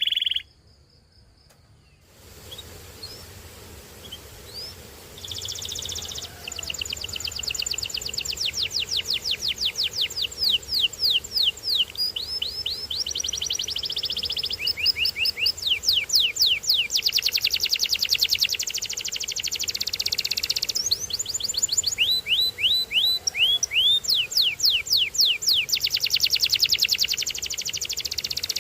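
Domestic canary singing a long, rolling song of rapid trills, each a fast run of quick down-sweeping notes, switching from one phrase to the next. The song comes in a few seconds in after a short near-silent gap.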